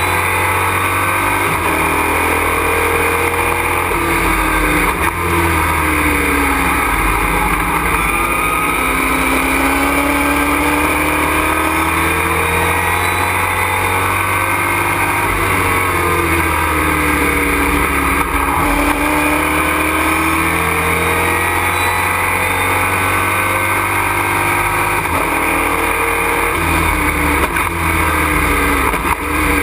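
Race truck's engine heard from inside the cockpit under hard running, its pitch climbing and dropping again and again as it accelerates and slows. Loud wind and road noise run underneath.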